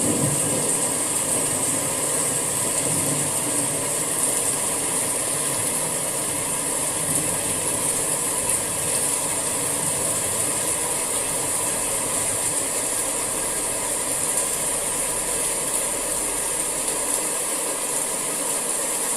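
Steady summer rain falling, a dense even hiss, with a low rumble under it at the start.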